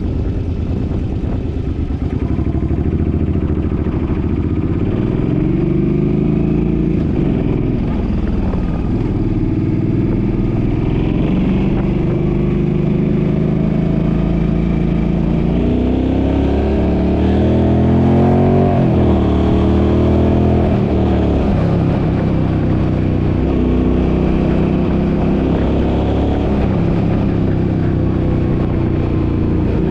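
Suzuki's engine running under way, its revs climbing and falling back several times as it pulls through the gears.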